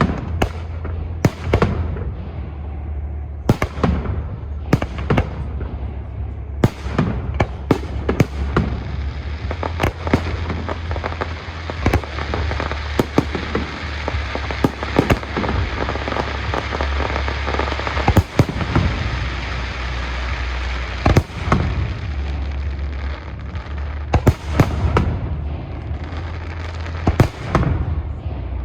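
Fireworks display: repeated sharp bangs of shells bursting overhead, with a dense stretch of crackling fireworks through the middle, over a steady low rumble.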